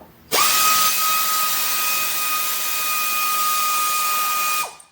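A power tool running steadily for about four seconds: a constant whine over a loud hiss, starting and stopping abruptly.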